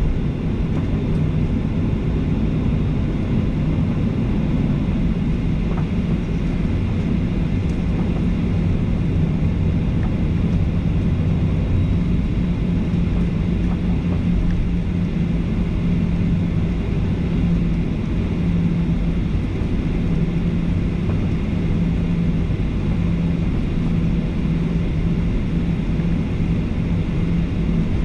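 Cabin noise inside a Boeing 737-800 with its CFM56-7B engines running: a steady engine drone and airflow rumble with a constant low hum, heard from a window seat toward the rear of the cabin.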